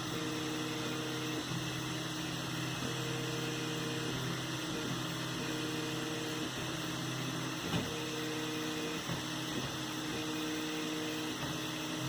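3D printer at work: its stepper motors sing in steady tones that change pitch every second or so as the print head switches moves, over a steady hiss, with one short click about two-thirds of the way through.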